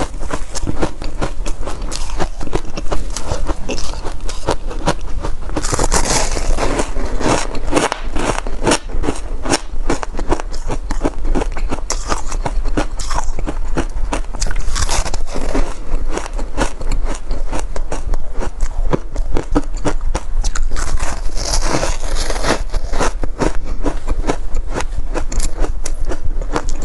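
Shaved ice being bitten and chewed close to the microphone: a dense, continuous stream of crunches and crackles, with a few louder, thicker stretches of chewing.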